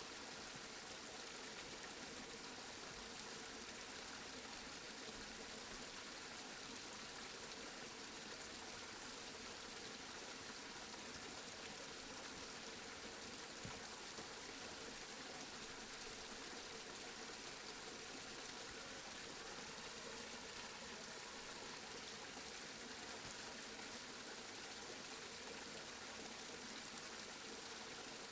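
Steady rainfall, an even hiss of rain with no breaks or louder drops.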